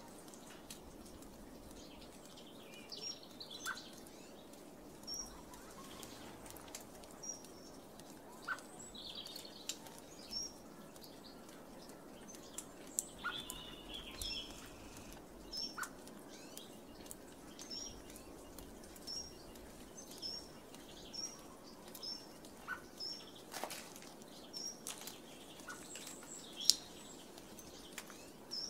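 Small garden birds calling with short high chirps, which become regular at about one a second in the second half, and a few sharp taps, the loudest near the end.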